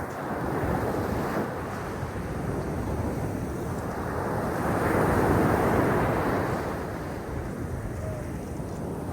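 Black Sea waves washing onto the shore, a steady surf that swells about halfway through and eases off again.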